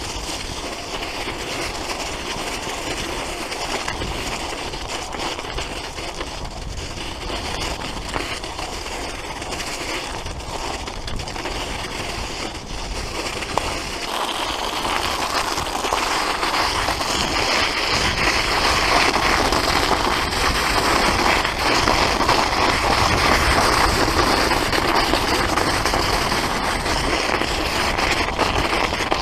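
Road bike ridden over a snowy forest trail: a continuous rattling rumble of the tyres and frame over rough ground, getting louder about halfway through.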